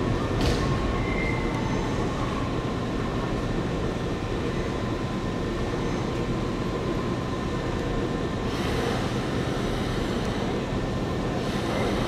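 Nankai 2000 series electric train departing, its wheels running steadily over the rails and pointwork as it passes and pulls away. A short click comes about half a second in, then a brief high wheel squeal.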